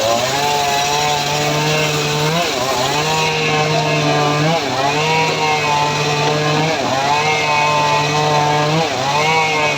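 Engine-driven homemade srekel sawmill cutting teak wood. The engine's note runs steadily and sags briefly about every two seconds before recovering, as it takes load in the cut.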